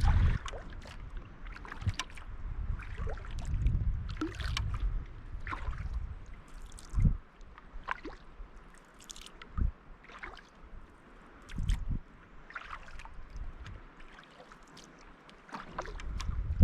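Kayak paddling: the paddle blades dipping and pulling through the water in irregular splashes, with water dripping and gurgling off the blades and a few dull low thumps.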